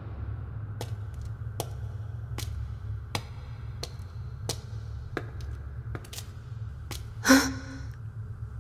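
Anime soundtrack sound effects: a steady low rumble with sharp clicks about every three-quarters of a second, and one louder burst about seven seconds in.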